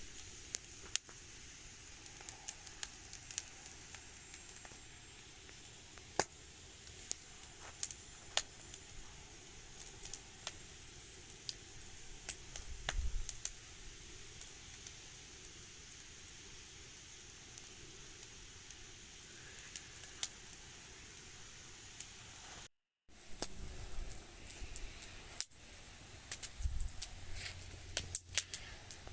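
Wood fire crackling, with irregular sharp pops over a steady hiss. The fire is burning hot with secondary combustion. The sound cuts out for a moment about three-quarters of the way in.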